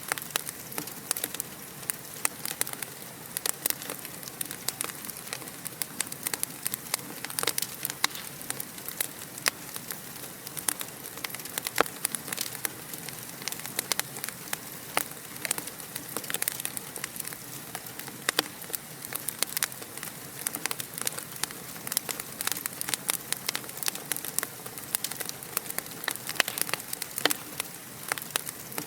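Wood fire crackling in a fireplace: dense irregular pops and snaps over a steady hiss.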